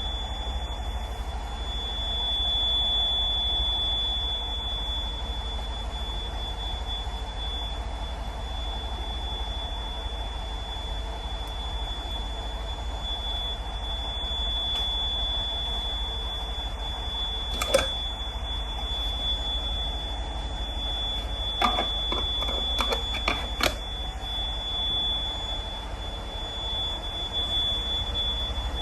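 CAT C18 diesel engine running steadily while warming up, a deep low rumble, with a steady high-pitched tone over it. A sharp click sounds about halfway through, and a handful more follow a few seconds later.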